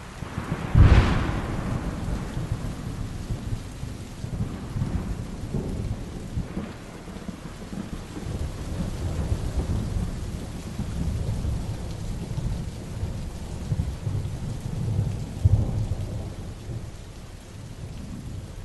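Heavy rain falling steadily during a thunderstorm. A sharp thunderclap about a second in gives way to long, low rolling rumbles, which swell again near the end.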